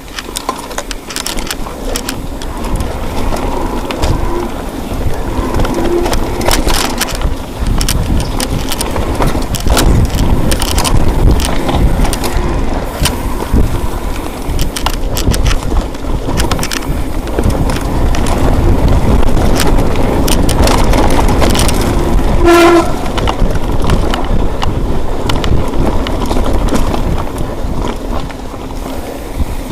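Wind rumbling over a moving microphone, with scattered rattles and knocks throughout and a brief squeak a little over twenty seconds in.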